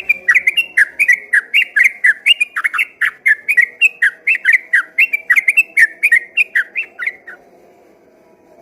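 Sooty-headed bulbul (trucukan) singing a long, rapid run of whistled notes, about three or four a second, that stops about seven seconds in.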